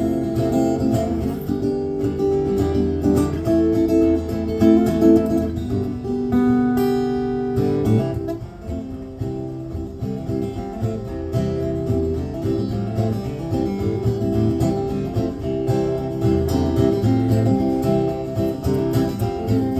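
Solo acoustic guitar playing an instrumental break between verses of a song, strummed chords mixed with picked notes, a little softer for a moment about eight seconds in.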